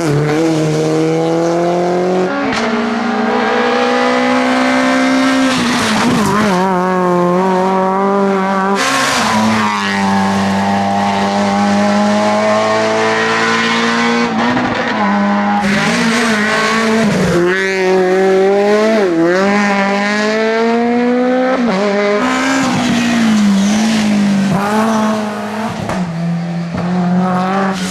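Rally car engine at high revs, the pitch climbing and then dropping sharply again and again as the driver shifts gears and lifts off.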